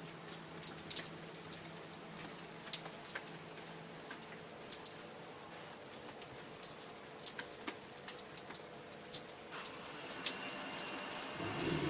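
Rain falling steadily, with single drops tapping sharply close by. The rain grows heavier over the last couple of seconds, and a low steady sound comes in right at the end.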